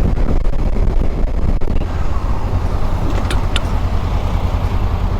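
Honda CB500X parallel-twin engine running as the motorcycle rides along, with steady wind and road noise on the microphone.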